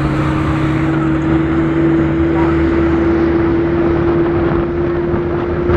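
A vehicle's engine and road noise while driving, a steady engine hum that rises slowly in pitch as it gathers speed.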